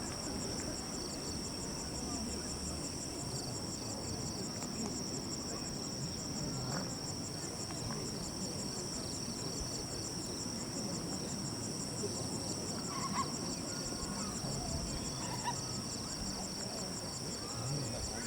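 Night insects chirping steadily: one high, even trill and another with a fast pulsing rhythm above it, over a low murmur of crowd chatter.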